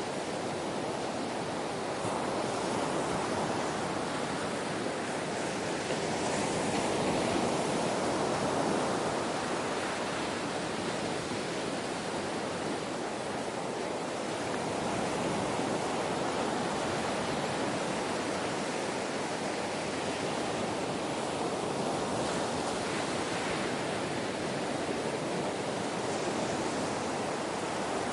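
Gentle ocean waves washing on a shore: a steady rush of surf that swells and eases slowly a few times.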